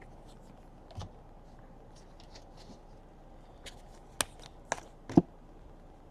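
Trading cards being handled and sorted on a table: faint sliding and rustling with a few sharp clicks and taps, one about a second in and three close together near the end, the last the loudest.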